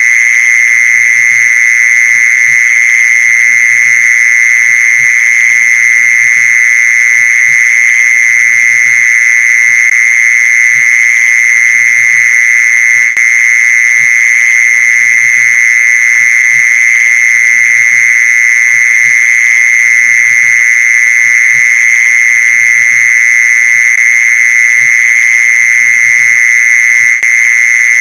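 Mole cricket call: a loud, unbroken high-pitched trill that holds one steady pitch.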